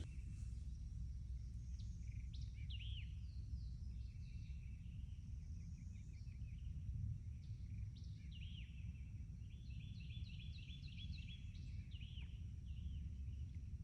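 Songbirds calling: short swooping chirps and, twice, fast trills of repeated notes, over a steady low rumble.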